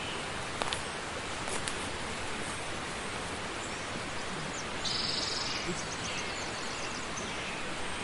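Steady outdoor ambient hiss with faint high chirps about five seconds in.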